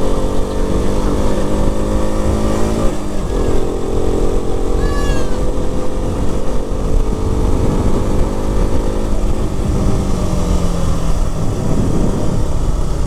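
KTM RC 200's single-cylinder engine running at a steady speed, dipping briefly in pitch about three seconds in and easing off after about nine seconds, with road and wind noise. A short high chirp about five seconds in.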